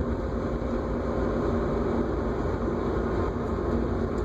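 Steady road and engine noise inside a moving car's cabin, with a faint steady hum.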